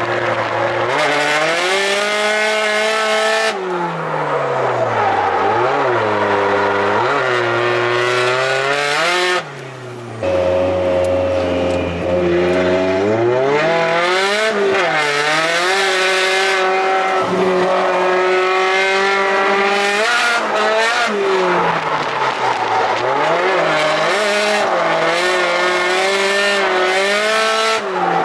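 Car engine being driven hard, revving up and down again and again as it works through corners, with tyres squealing. The revs drop off briefly about nine seconds in, then pick up and hold high.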